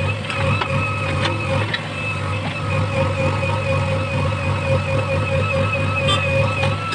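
Heavy diesel engine running steadily, with a steady, slightly wavering high whine over it.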